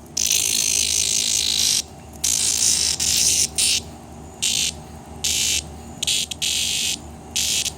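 Cicada giving a harsh, high-pitched buzzing distress call in about nine stop-start bursts: a long one of over a second and a half, then one of about a second, then shorter ones of a fraction of a second each. It is the protest buzz of an insect that has been picked up and disturbed.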